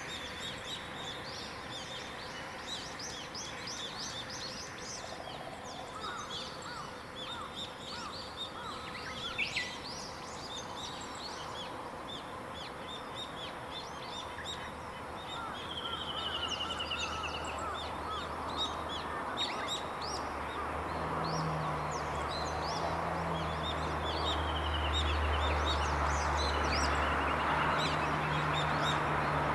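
Several wild birds chirping and singing, with short high calls throughout and a quick trill near the middle. From about halfway, a low rumble with a steady hum comes in under the birdsong and grows louder.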